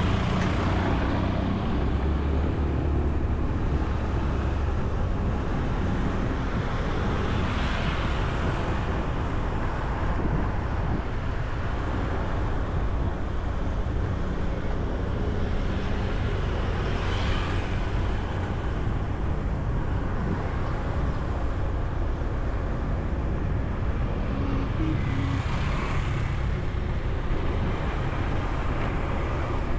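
Road traffic noise: a steady rumble of vehicles, with single vehicles passing close by about four times, roughly every nine seconds.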